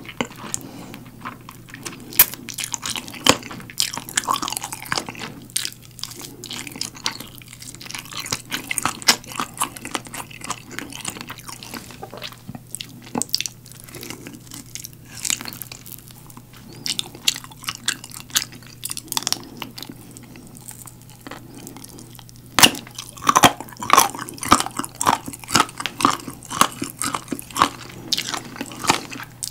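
Close-miked eating of galbi-sauce-glazed roasted chicken leg: biting and gnawing meat off the bone and chewing, with a run of quicker, louder bites and chews near the end. A faint steady hum lies underneath.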